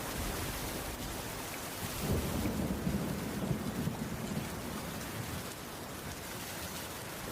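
Steady heavy rain on a wooden roof, with a low rumble swelling about two seconds in and dying away a couple of seconds later.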